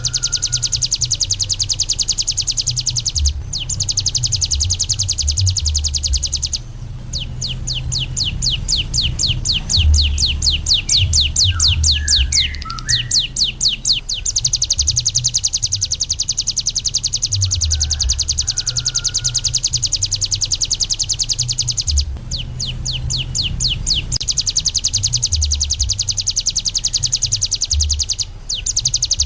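Ciblek gunung (a prinia) singing a long, very fast, high-pitched trill, broken by a few short pauses. In two stretches it slows into a series of separate rising notes before speeding back up.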